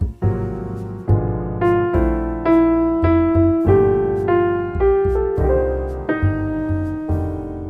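Background piano music: gentle struck notes about twice a second over a low bass line.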